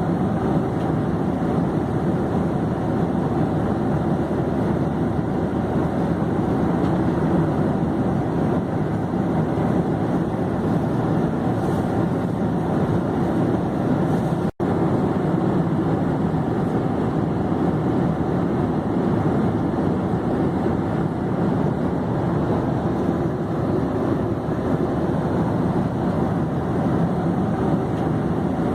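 Steady droning noise of an airplane in flight, even and unchanging, with the sound cutting out for an instant about halfway through.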